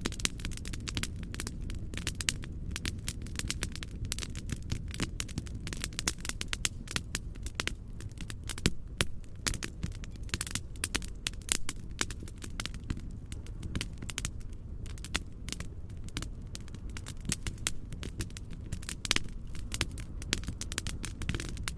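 Wood fire in a fireplace crackling, with many irregular sharp pops and snaps, over a steady low rumbling noise bed.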